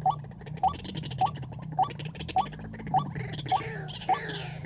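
White-breasted waterhen calling: a short rising note repeated at an even pace, about eight times, nearly two a second.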